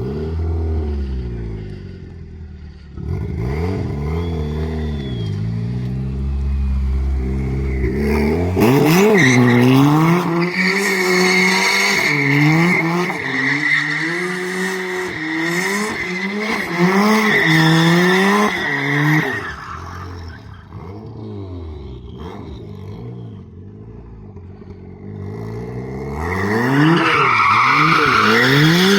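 Turbocharged Toyota 2ZZ four-cylinder engine in a Lotus Elise revving hard during donuts, its pitch rising and falling over and over while the rear tyres squeal as they spin under power. The squeal holds through the middle stretch, eases off for a few seconds, then builds again with the revs near the end.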